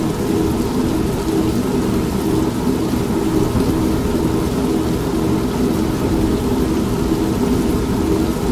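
Steady rain hiss mixed with the low, rhythmically pulsing hum of an old manual washing machine running.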